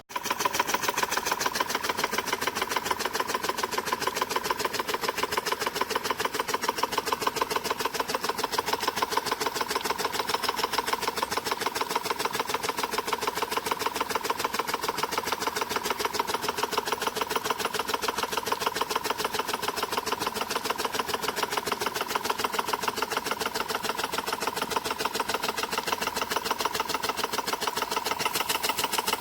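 Water-powered drive of a hose-reel irrigator running, a fast, even mechanical clicking of several clicks a second.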